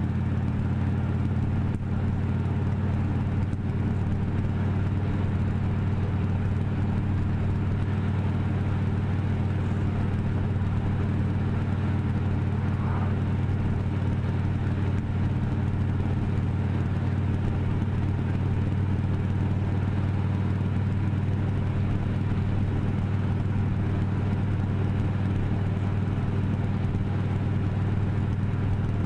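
Vehicle engine running at a steady pace with road noise, its low hum holding one pitch throughout.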